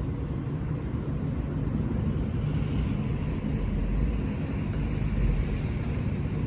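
EMD diesel-electric locomotives running, a steady low rumble.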